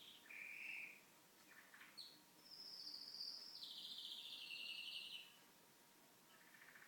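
Pet canary singing faintly: a few short notes, then a long fast trill lasting nearly three seconds that slides slowly down in pitch, and another short trill near the end.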